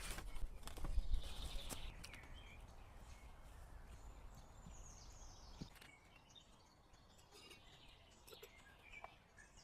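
A few sharp knocks and handling noises with a low rumble in the first two seconds, then quieter outdoor ambience with a few faint bird chirps, one a short falling call about five seconds in.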